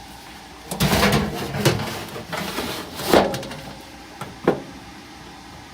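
Metal furnace blower assembly being slid back into the sheet-metal furnace cabinet, scraping and clattering for a few seconds, then a single sharp knock about four and a half seconds in.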